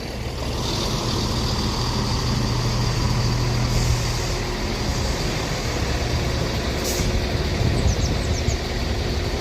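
Chiltern Railways Class 168 diesel multiple unit standing at the platform with its underfloor diesel engines idling, a steady low hum. Short air hisses from the train's air system about four seconds in and again about seven seconds in.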